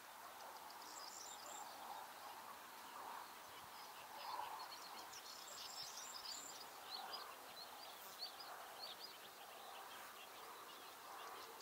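Faint outdoor ambience with distant small birds: a scatter of short, high chirps, busiest through the middle, over a soft background hum.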